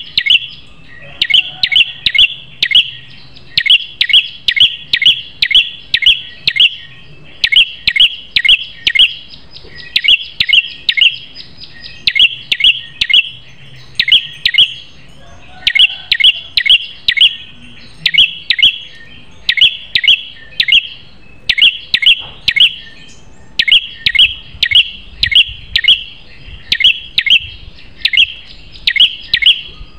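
Prenjak kepala merah (a prinia-type songbird) singing loudly and persistently. It gives quick runs of three to six sharp, high chirps, one run after another with short pauses between them.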